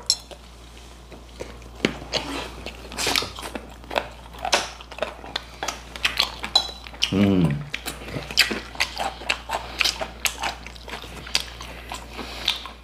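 Crunchy fried chicken being bitten and chewed close to the microphone, with many short crisp crunches. A brief voice sound falling in pitch comes about seven seconds in.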